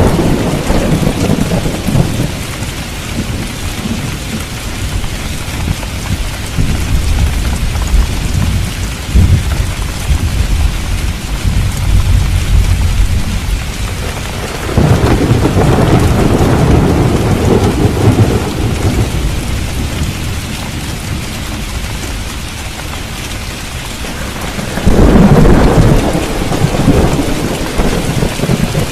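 Steady rain with rolls of thunder: one dying away at the start, a longer rumble about halfway through, and another near the end.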